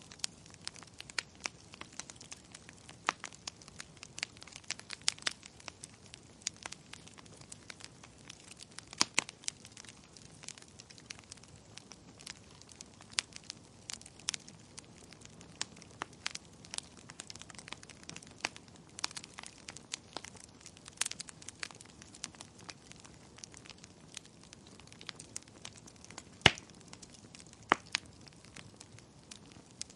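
Wood fire crackling in a fireplace: irregular sharp pops and snaps over a faint steady hiss, with one louder pop near the end.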